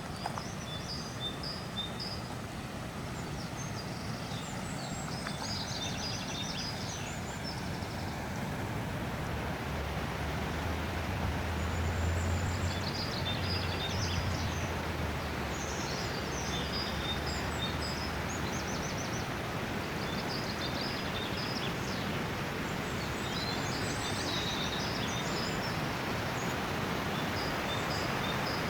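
Birds chirping and singing, many short repeated calls, over a steady outdoor background hiss. A low rumble swells and fades about halfway through.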